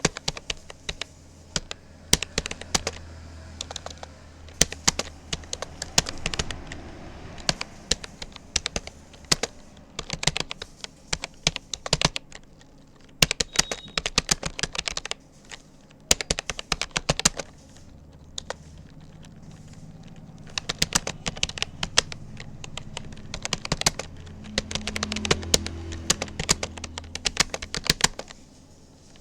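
Typing on a Rapoo computer keyboard: fast runs of keystroke clicks broken by brief pauses, as in steady touch-typing at about 36 words a minute.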